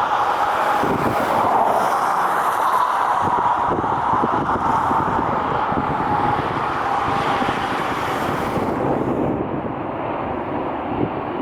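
Jet airliner engines running as the plane passes close by: a steady rush with a faint held whine. The hiss fades about nine seconds in as the plane draws away. Wind buffets the microphone.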